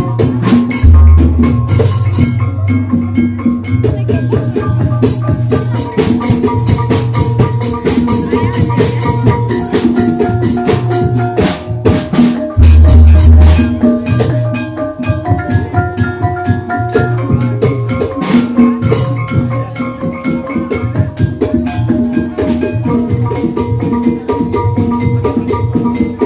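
Javanese gamelan music accompanying an ebeg dance: metallophone melody tones over busy, rhythmic drumming, with two deep low strokes, about a second in and again about halfway.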